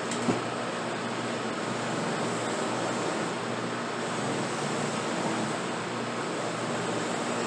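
Electric buffing wheel running steadily, a constant whir with a low motor hum, with one short click about a third of a second in.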